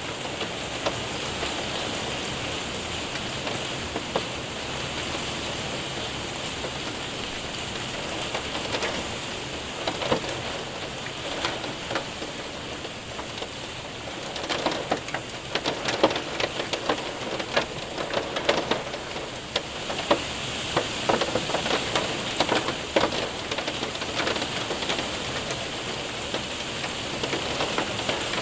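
Heavy rain and hail hitting a window and roof: a steady hiss of rain with many sharp ticks of hailstones, the ticks coming thicker in the second half.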